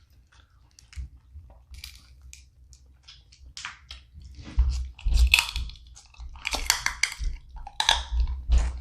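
Close-up mouth sounds of eating seafood boil: chewing and crunching of snow crab and shrimp, with short crackles that get denser and louder about halfway through, over low thuds.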